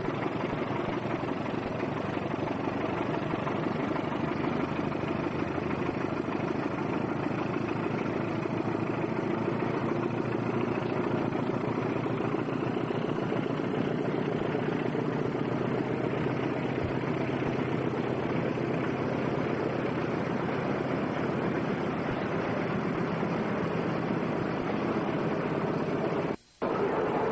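Train running along the track: a steady rumble and rattle that cuts out abruptly for about half a second near the end.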